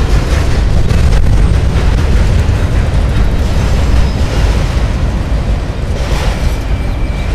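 CSX freight train of autorack cars rolling past, a loud, steady low rumble of wheels on the rails. A faint high squeal comes in near the end.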